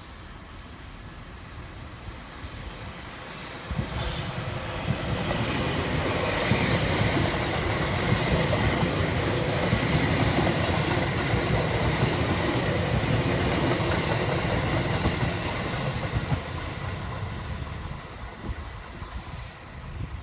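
A JR Central 313 series 5000-subseries electric train passing slowly through a station, its wheels rumbling along the rails with a steady high whine. It grows louder a few seconds in and fades near the end as it pulls away.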